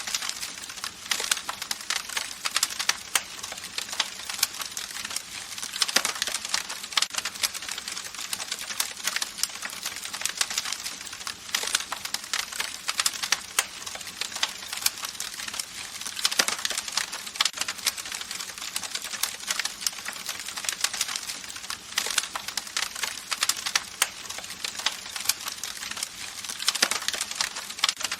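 Campfire crackling: a dense, irregular run of sharp pops and snaps over a steady hiss, with no low rumble.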